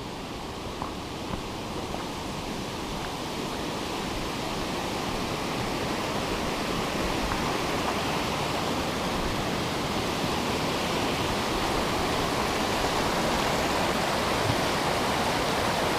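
Steady rush of water from the creek or falls in Waterfall Canyon, growing gradually louder.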